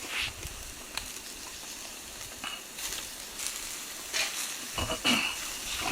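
Yakitori chicken skewers sizzling over charcoal on a fire-pit grill, a steady hiss with scattered crackles and pops that come more often in the second half.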